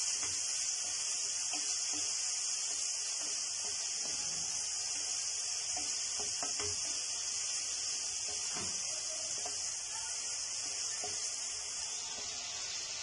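Diced chicken sizzling in hot oil in a nonstick frying pan, a steady hiss, while a wooden spatula stirs it with occasional soft taps and scrapes against the pan.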